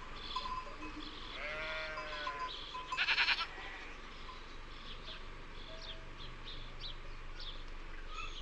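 Bleating farm animals, a sheep or goat kind: a short wavering call about a second and a half in, then a louder, harsher bleat about three seconds in. Small birds chirp repeatedly through the rest.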